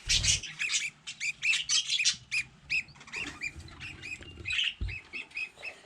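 Budgerigars squawking and chirping in short, rasping calls, several a second. Two dull thumps, one at the very start and one near the end.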